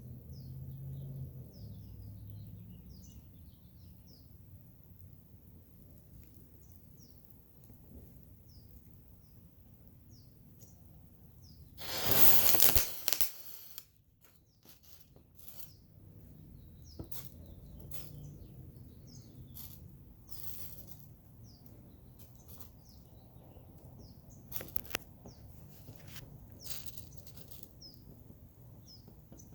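Small birds chirping outdoors, short repeated downward chirps. About twelve seconds in, a loud rushing noise lasts about a second and a half, louder than everything else, followed later by a few scattered sharp clicks.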